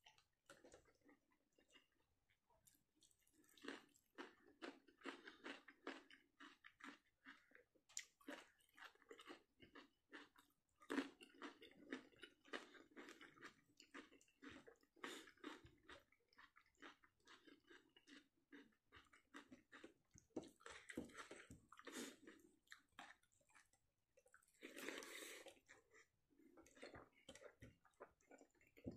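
Close-up chewing of a mouthful of rice and fish curry, in irregular runs of small wet clicks with short pauses between.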